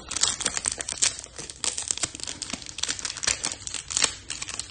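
A trading-card pack's foil wrapper crinkling and tearing as the pack is opened: dense, irregular crackling throughout.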